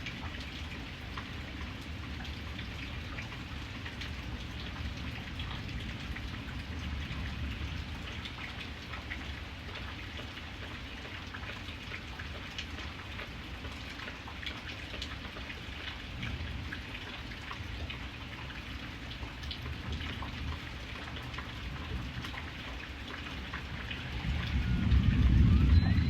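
Steady rain with a fine patter of drops, under a low rumble of thunder that swells loudly near the end.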